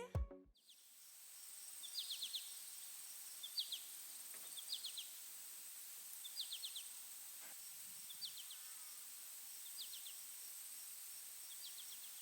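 Faint outdoor ambience: a cricket chirping, each chirp a quick group of three or four pulses, repeating about once a second over a steady high hiss. Background music cuts off right at the start.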